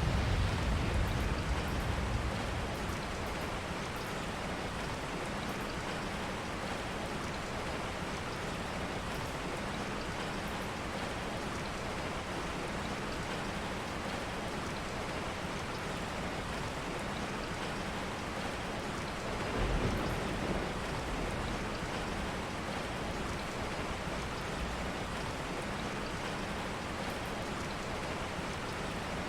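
Steady rain falling, an even hiss. There is a brief low rumble at the start and another about twenty seconds in.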